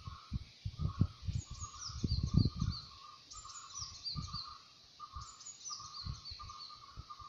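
Birdsong: a short phrase of high, falling notes repeated about every two seconds, over a steady run of lower chirps about two a second. Low thumps and rustles in the first few seconds are the loudest sounds.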